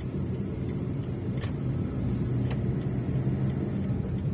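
Maruti Suzuki Swift Dzire driving on the road, its engine running with a steady low hum and road noise, on a newly replaced engine mount with no rubbing noise. Two light clicks about a second apart near the middle.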